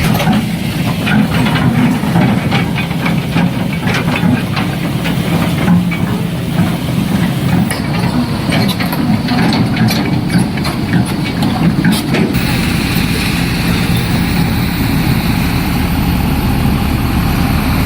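A heavy vehicle's engine running steadily, with irregular knocks and clanks over it for the first twelve seconds or so, then running on more smoothly.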